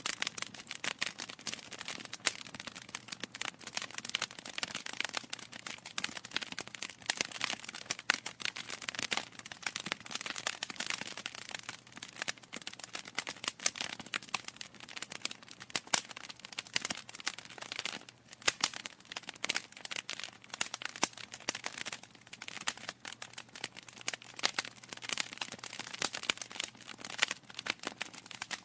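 Wood fire crackling: logs burning with dense, irregular snaps and pops.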